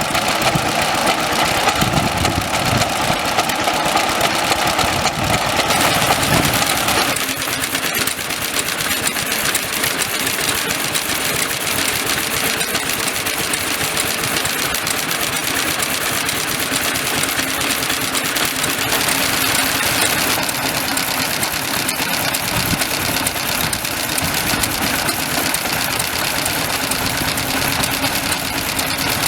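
Vintage stationary engines running with a steady, rapid beat. The sound changes abruptly about seven seconds in, as if a different engine or engines are now the loudest.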